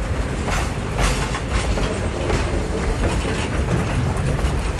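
A train running on the rails: a dense, steady rumble with repeated sharp clacks of the wheels over the rail joints, from a 1958 stereo LP recording.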